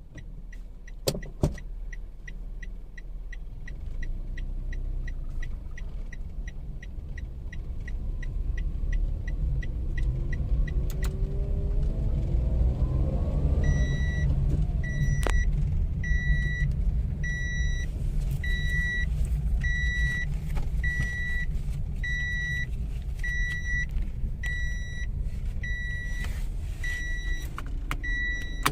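Toyota Wigo's three-cylinder engine running as the car pulls away and accelerates, heard from inside the cabin, its pitch rising a little before halfway. For the first ten seconds or so a steady fast ticking sounds over it. From about halfway a warning chime beeps about once a second.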